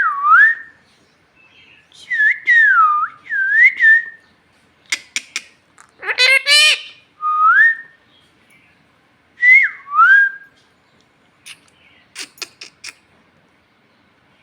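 Pet parrot whistling: a string of short, clear whistles that dip and swing back up. About six seconds in comes a harsher rising call, and there are sharp clicks about five seconds in and again around twelve seconds.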